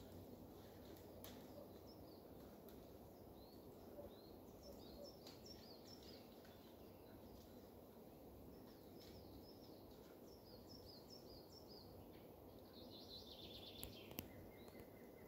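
Near silence: faint bird chirps over a low background hiss, with a quick trill of notes near the end.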